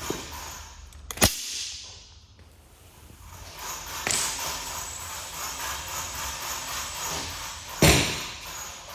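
A paint spray gun hissing as it sprays primer. There is a short burst after a sharp click about a second in, then a steadier spray of about four seconds. A loud knock comes near the end.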